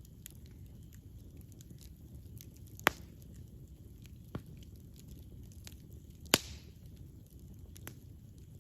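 Wood campfire burning with a low steady rumble and scattered crackles, with two loud sharp pops from the burning logs, about three seconds in and again near six and a half seconds.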